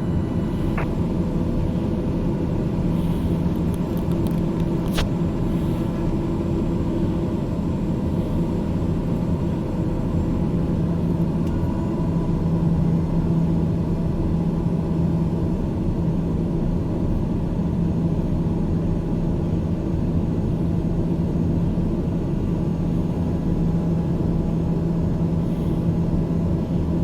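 Steady rumble of a jet airliner's engines heard from inside the aircraft, with a constant low hum and a fainter higher tone.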